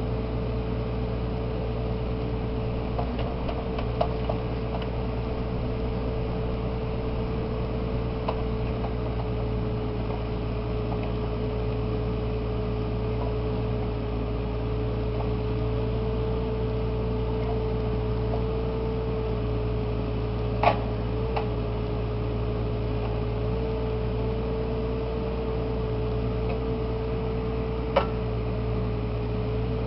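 Bobcat 329 compact excavator's diesel engine running steadily, with a constant whine over its low drone. Two short sharp clicks sound in the second half.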